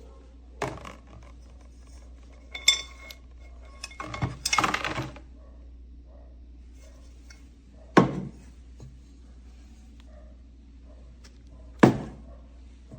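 Nonstick pots and pans being handled, knocking and clinking against each other. There are several separate knocks, the one about two and a half seconds in with a brief metallic ring, and a rattling clatter around four to five seconds in.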